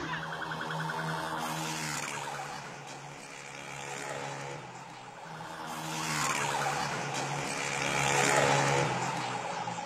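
A car engine running hard at high revs, with road and tyre noise, heard through a mobile phone's microphone. The engine note drops about three seconds in, then climbs again and is loudest near the end.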